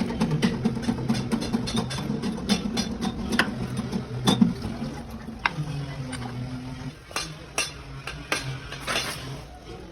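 Metal tools clinking and knocking: many sharp clicks and taps at uneven intervals over a low steady hum that weakens about seven seconds in.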